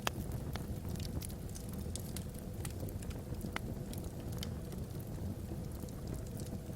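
Wood logs burning in a fireplace, crackling with irregular sharp pops over a steady low rumble, with one louder pop right at the start.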